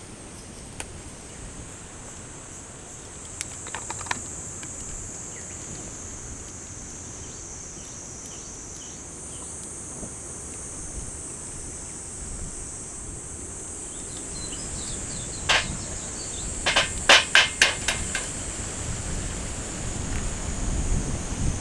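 A steady high-pitched insect drone over low wind rumble, broken by sharp knocks: one about four seconds in, another near fifteen seconds, then a quick run of about seven knocks near the end.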